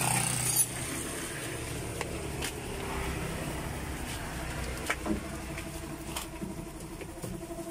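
Motor-vehicle engine idling steadily, with a few light clicks and knocks.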